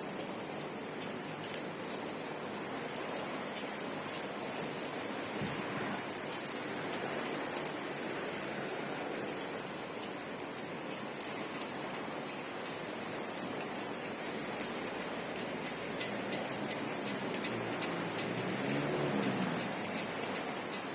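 Steady rain falling, with scattered drops ticking on a surface. A low sound swells briefly near the end.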